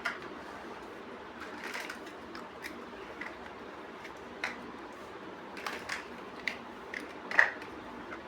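Plastic building bricks clicking and snapping together in scattered, irregular light clicks, the loudest about seven seconds in, over a steady faint hiss.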